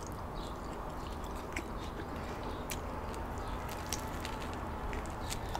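A person biting into and chewing a crusty baguette sandwich: a few faint, short crunches and clicks over a steady low background.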